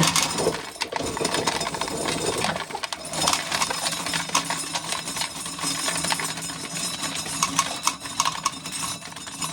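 Dried corn being shelled: a dense, irregular run of small clicks and rattles as kernels come off the cob and fall.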